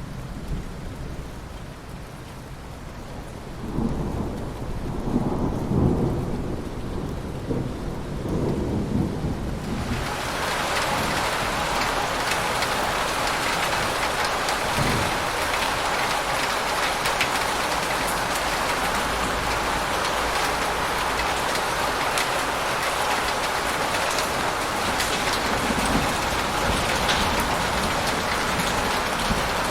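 Thunder rumbling low from about four seconds in, then heavy rain coming in suddenly about ten seconds in and pouring steadily.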